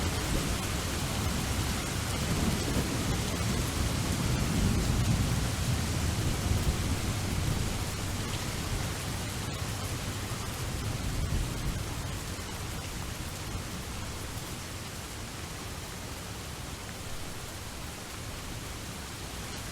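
Steady rain falling with rolling thunder: a low rumble swells in the first half and dies away, leaving the even hiss of rain.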